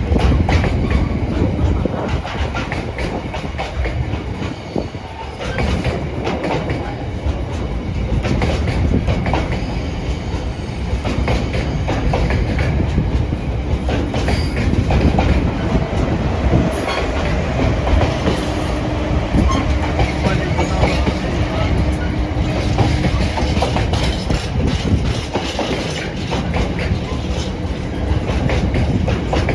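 Long Class 70-hauled freight train's wagons rolling past steadily, wheels clattering rhythmically over the rail joints.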